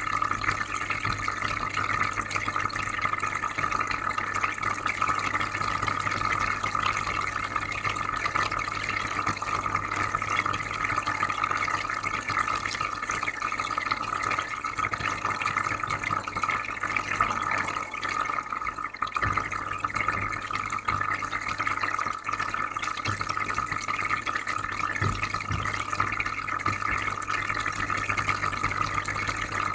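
Aquarium filter running: a steady trickle and bubbling of water over a constant low hum.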